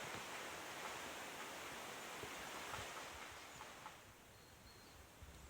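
Forest ambience: a steady, noisy hiss that drops off about four seconds in, with faint bird chirps near the end.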